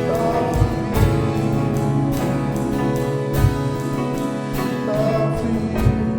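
Live church worship band playing a song, with drum hits and held sung notes over sustained instruments.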